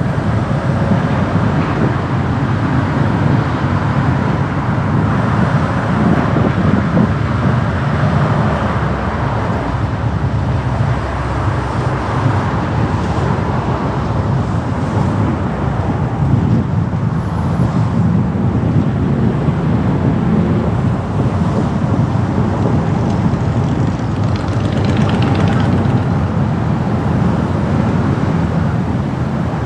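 Car driving through city traffic: steady road, tyre and engine noise, with a brief louder hiss about 25 seconds in.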